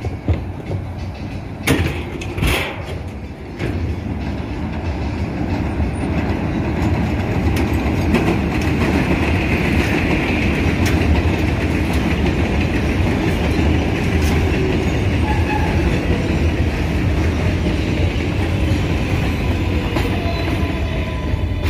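R188 subway train pulling into an elevated station: a few sharp clicks about two seconds in, then a steady rumble of wheels on rails that swells through the middle.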